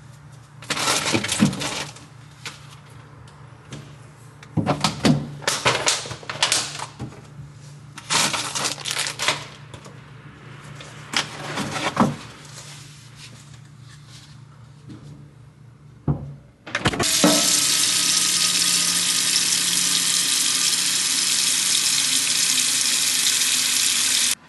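Kitchen clatter: several bursts of knocking and clinking, like dishes or utensils being handled. Then, about two-thirds of the way in, a tap is turned on and water runs steadily and loudly into a sink.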